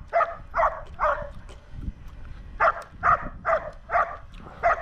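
A dog barking in short, quick barks at a drone hovering just out of reach: three barks, a pause of about a second and a half, then a run of about six.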